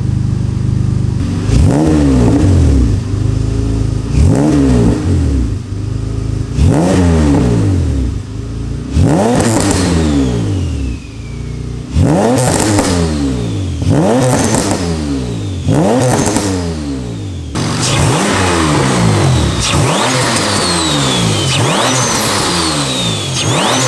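Turbocharged Acura TL Type-S V6 revved repeatedly in free rev, about seven quick blips that rise and fall in pitch every two to three seconds. Several blips are followed by a high whistle falling in pitch. In the last few seconds the engine holds a steadier, fuller rev, and more of these falling whistles come one after another.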